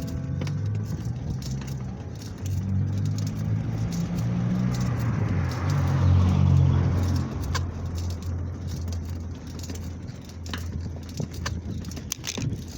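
A motor vehicle's engine passing, swelling to its loudest about six seconds in and then fading, with light clicks and rattles throughout.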